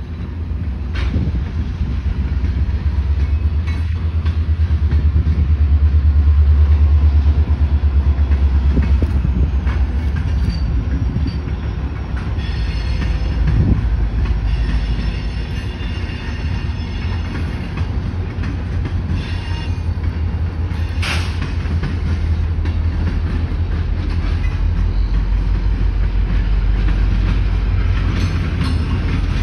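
Freight train rolling past, its steel wheels clattering steadily over the rails beneath a deep, continuous rumble from the CSX diesel locomotives. Some faint, high wheel squeal comes in a little before the middle.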